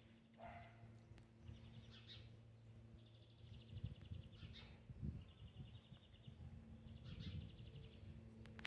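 Faint chirps and short rapid trills of small birds, repeating every second or two over a low steady hum, with a few soft low thumps about four to five seconds in.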